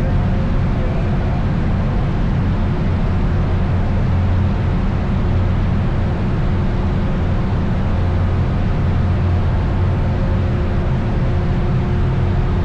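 Steady vehicle engine drone with rushing noise, holding one pitch throughout with a few faint constant tones, cutting off abruptly at the end.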